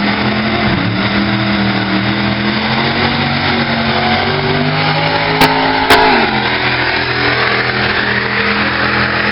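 Monster truck's supercharged V8 running loud and hard under full throttle. Two sharp pops about halfway through, the second the loudest, followed by a brief drop in engine pitch before it steadies again.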